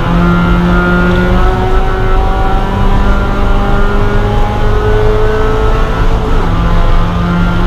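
Spec Miata race car's four-cylinder engine heard from inside the stripped cabin, running hard under power with its pitch rising slowly through a gear, over loud road and wind noise. The rising note breaks off about six seconds in, then picks up again.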